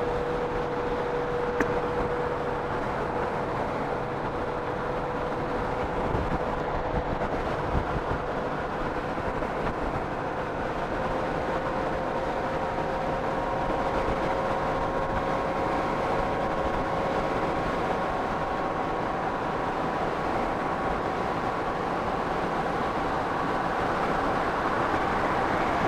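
Honda Gold Wing motorcycle cruising at steady speed: a constant rush of wind and road noise, with a steady whine that creeps slightly higher in pitch over the stretch.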